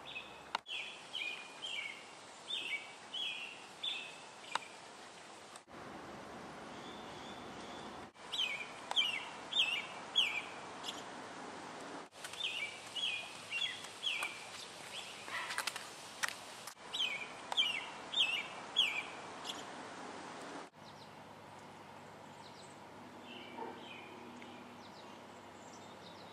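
A songbird singing over a steady outdoor hiss: phrases of four to six quick, high slurred notes, repeated every few seconds. The background breaks off abruptly several times.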